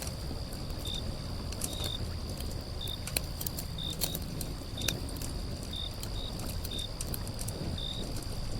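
Outdoor nature ambience: a steady high-pitched insect drone with short, higher chirps repeating roughly once a second and a few faint clicks, over a low rumble.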